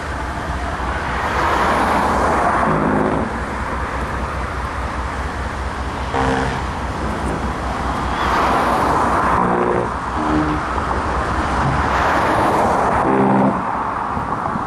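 Low, steady rumble of a distant freight train's GE diesel locomotives approaching, under rushing traffic noise that swells and fades in waves. Several short pitched blasts sound along the way.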